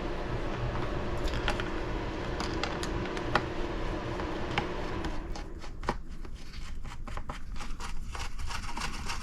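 Small metal clicks and scrapes of a hex driver turning a button head screw into a servo-mount post on an RC buggy chassis, the clicks coming quicker and denser about five seconds in, over a steady low hum.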